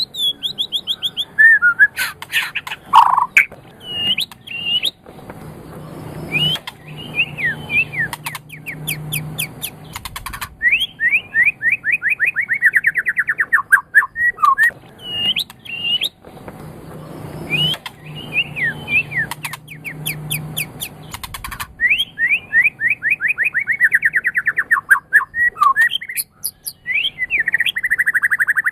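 White-rumped shama (murai batu) singing a loud, varied song of whistled phrases, with fast runs of rapidly repeated notes. The same song sequence comes round again about every 11 to 12 seconds, as in a looped training recording.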